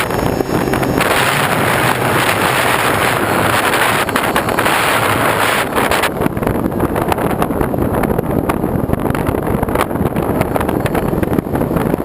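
Loud, steady wind rush buffeting the microphone; the high hiss eases about halfway through.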